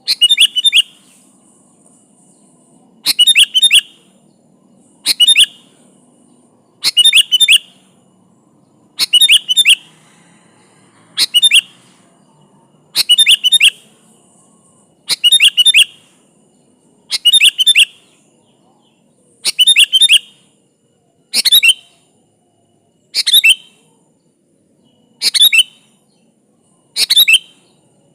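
Sooty-headed bulbul (kutilang) song: a short, loud, chirpy whistled phrase repeated about every two seconds, fourteen times over.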